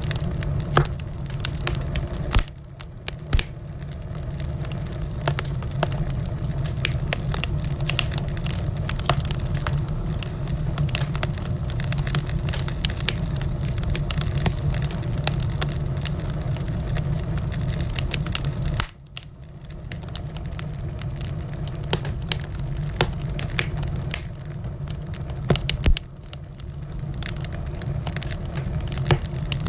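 Wood fire in a fireplace crackling, with frequent sharp pops and snaps over a steady low rumble. The rumble drops away abruptly three times, about two seconds in, about two-thirds of the way through and again near the end, while the crackles carry on.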